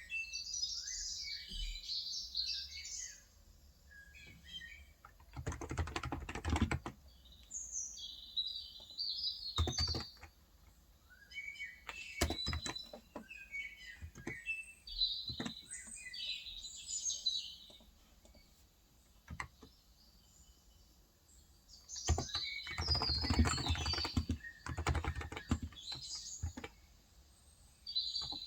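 Typing on a COX Endeavor 35g electro-capacitive (contactless) tenkeyless keyboard, in bursts of keystrokes. The longest runs come about five seconds in and again from about 22 to 25 seconds. Small birds chirp on and off between the typing.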